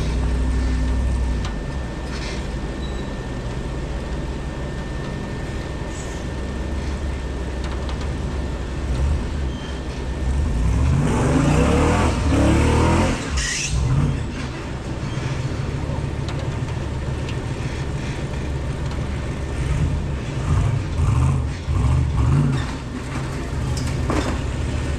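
Off-road 4x4's engine running and revving in bursts, loudest about halfway through, with more short revs near the end.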